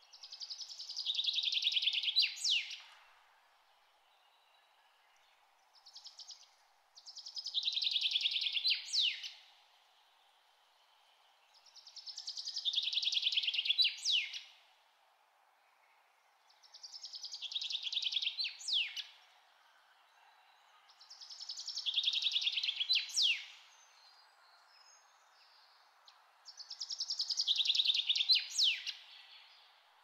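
A songbird sings the same song six times, about every five seconds. Each song is a fast trill of about two seconds that falls a little in pitch and ends in a couple of sharp sweeping notes. A faint steady hiss runs underneath.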